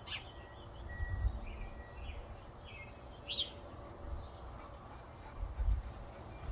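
Birds chirping outdoors: two sharp down-slurred chirps, one at the start and one about three seconds in, with softer short notes between. Low rumbles on the microphone come about a second in and again near the end.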